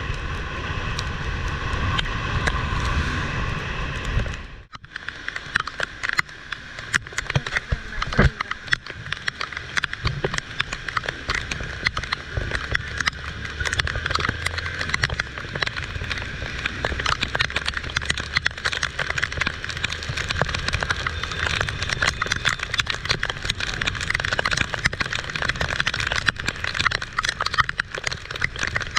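Heavy tropical downpour, dense raindrops pattering and clicking on a nearby surface. A low rumble sits under the rain for the first few seconds, then drops out briefly about four and a half seconds in.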